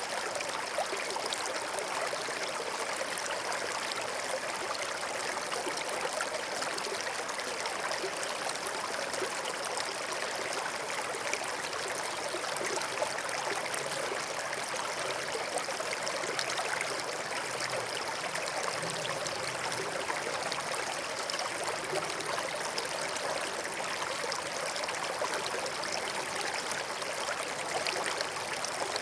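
Forest stream flowing over stones: a steady trickling and babbling of water.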